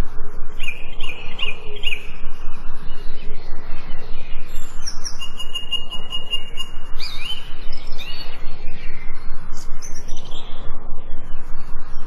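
Songbirds singing and chirping over a constant hiss-like background. There is a quick run of chirps near the start, a long steady whistled note in the middle, then several rising chirps.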